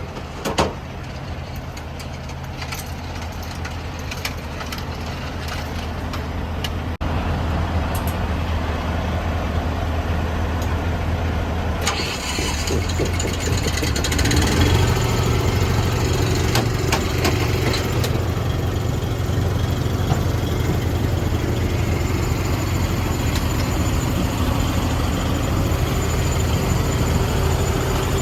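Truck engine idling with a steady low drone and a few clicks and knocks. About twelve seconds in a hiss starts, and soon after the engine runs louder and stays that way.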